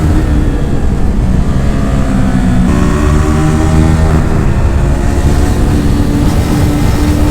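Yamaha R15 V4's single-cylinder engine through an Akrapovic aftermarket exhaust, heard while riding. The pitch sags off for a couple of seconds, then steps up sharply as the rider opens the throttle and the engine climbs again.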